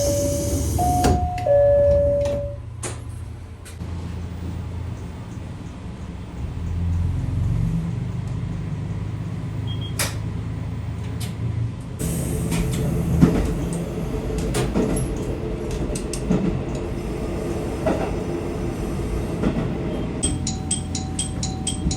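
Train door chime sounding a falling two-note signal twice as the doors close, then a diesel railcar's engine running and swelling as the train pulls away. After that comes the low rumble of the train under way, with wheel knocks and clatter. Music with a steady tone and regular ticking comes in near the end.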